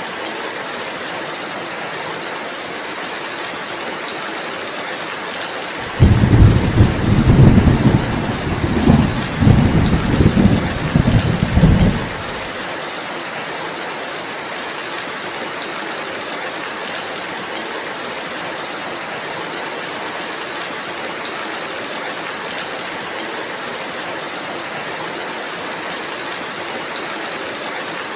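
Steady rainfall hiss. A loud, low rumble of thunder starts suddenly about six seconds in, rolls on in surges for about six seconds, then dies away while the rain carries on.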